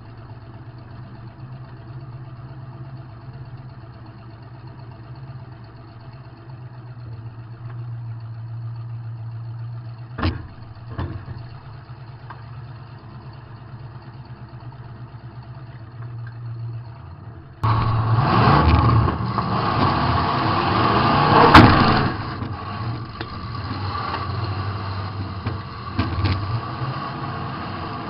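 Demolition derby car's engine running low and steady, heard from inside the car, with two short knocks about ten seconds in. About two-thirds of the way through it suddenly turns much louder and harsher, as if under hard throttle, with a single loud bang a few seconds later.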